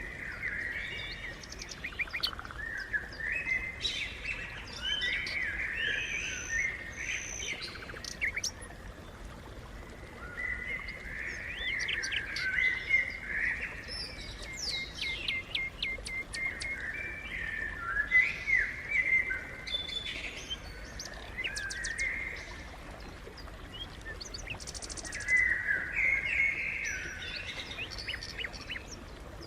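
House sparrows chirping, many short chirps from several birds in bunches with brief quieter spells.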